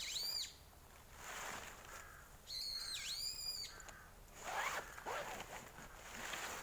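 A bird calling outdoors: two long, high, whistled calls that dip in pitch in the middle, and a shorter one near the end. Between them comes a short rasping scrape that sweeps upward, like a zipper being pulled.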